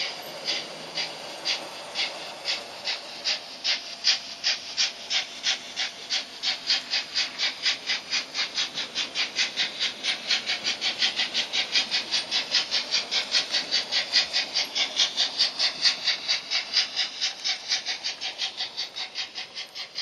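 Sound decoder of a Märklin H0 model steam locomotive chuffing as it pulls away: evenly spaced puffs of hiss that quicken from about two to about five a second, then ease off in loudness near the end.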